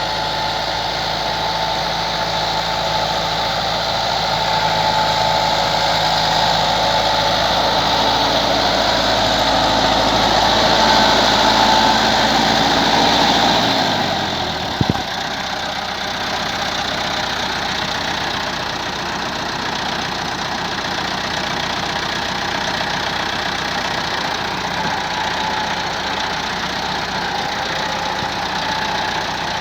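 Massey Ferguson MF 385 tractor's diesel engine running steadily while working a rotavator. About halfway through, the sound changes abruptly: the deep engine note falls away and there is a single brief sharp click.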